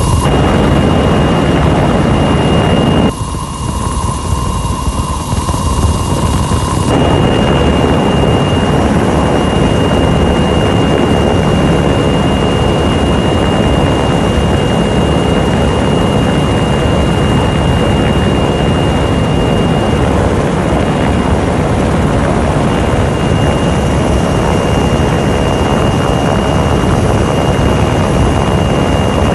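Rescue helicopter running close by: loud, steady rotor and engine noise with a constant high turbine whine. The sound changes abruptly for a few seconds, from about three seconds in to about seven.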